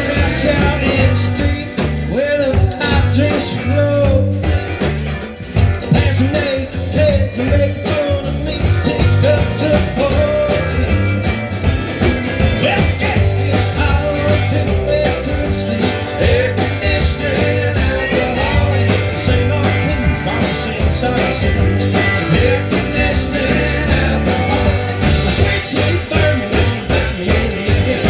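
A band playing an instrumental break in a bluesy country-rock song, with guitar over a steady bass and drum beat.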